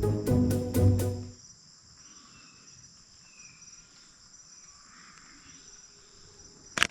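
Background music that stops about a second in, leaving a faint, steady high-pitched chirring of insects. Near the end comes a single loud, sharp click.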